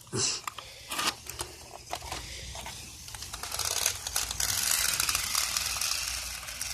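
A cheap toy RC car driving over dirt: its small electric motor and wheels make a gritty whirring that builds up after a couple of clicks, is loudest in the middle and fades near the end.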